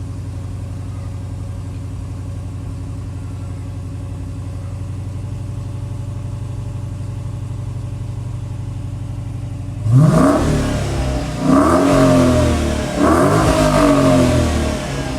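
2013 Dodge Challenger SRT8 392's 6.4-litre HEMI V8 idling steadily on its stock exhaust after a cold start. About ten seconds in it is revved three times in quick succession, each rev rising and falling back, before settling back to idle.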